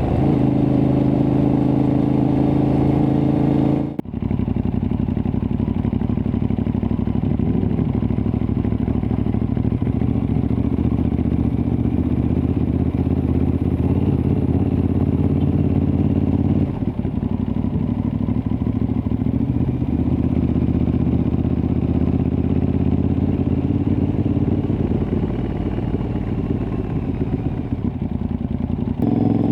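Aprilia Tuareg 660's parallel-twin engine running through a replica Akrapovic exhaust while riding, with a brief break about four seconds in. The engine note eases off and turns rougher about two-thirds of the way through.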